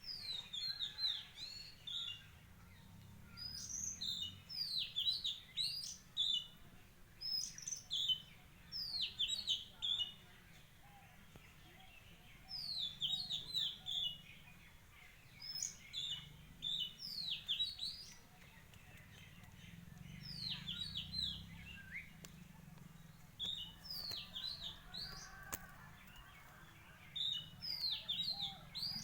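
Small birds chirping: short phrases of quick, high, downward-slurred notes, repeated every second or two, with brief pauses between phrases.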